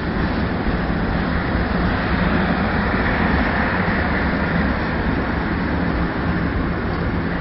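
Passenger train of couchette and sleeper coaches rolling past on the rails: a steady, even rumble of wheels on track.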